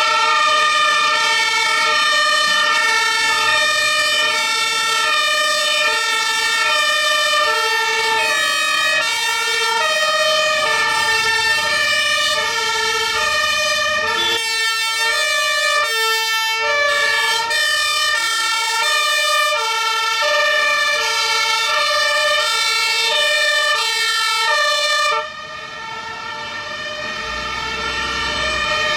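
German two-tone emergency siren (Martinshorn) on fire engines, alternating between a high and a low note about every two-thirds of a second, at times with more than one siren overlapping. The level drops suddenly about 25 seconds in, then swells again.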